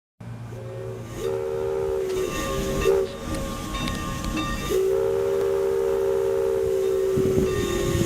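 A train sounding its multi-tone horn over a low rumble: one blast of about a second and a half, a couple of short toots, then one long held blast that drops slightly in pitch near the end.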